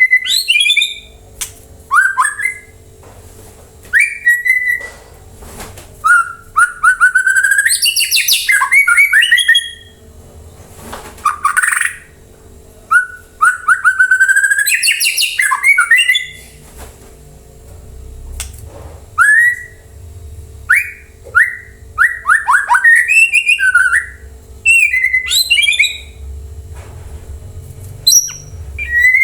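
White-rumped shama (murai batu) singing: loud, varied whistled phrases with quick rising and falling notes and rapid runs, broken by short pauses.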